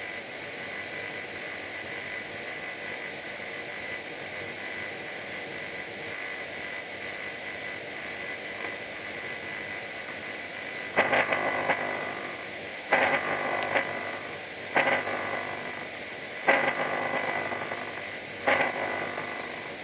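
Power electronics harsh noise: a steady static hiss with a constant high whine. About halfway through, loud distorted blasts begin, cutting in roughly every two seconds.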